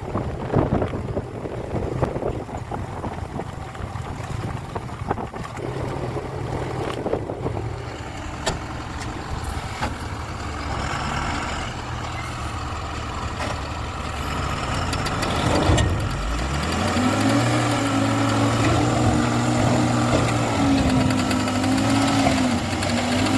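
Terex TLB 844S backhoe loader's diesel engine running, with scattered knocks early on. About 16 seconds in it briefly drops, then revs up and runs faster and louder, its pitch wavering.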